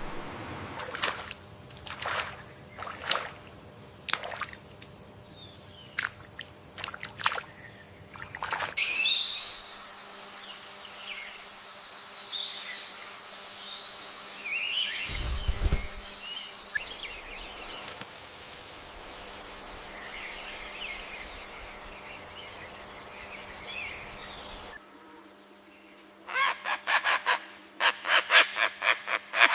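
Rainforest bird sounds in several short segments that change abruptly: sharp, separate calls in the first stretch, a busy layer of chirping birds through the middle with a brief low thump partway through, then a fast run of loud repeated calls near the end.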